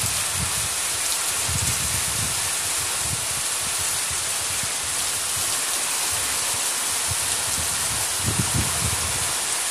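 Heavy monsoon-type rain pouring down steadily, a dense even hiss of rain on roofs and trees, with brief low rumbles now and then.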